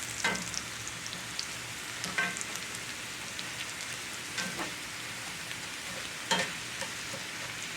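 Sliced potatoes and onions frying in oil in a cast-iron skillet: a steady sizzle, broken by a few short sharp clicks.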